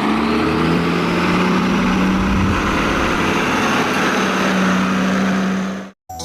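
Vehicle engine sound running steadily with a low hum, rising a little in pitch at the start, then cutting off suddenly near the end.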